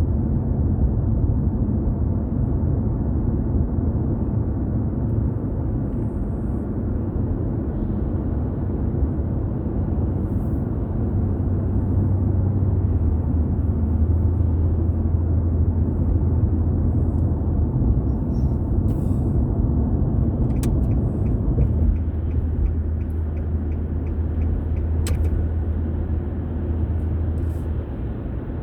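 Steady low rumble of a car driving along a road, engine and tyre noise. About two-thirds of the way through, a faint, evenly spaced ticking joins it.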